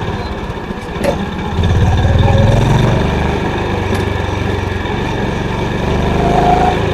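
Honda CB350's air-cooled single-cylinder engine thumping through its exhaust under way, getting louder about one and a half seconds in and again near the end. A short click about a second in.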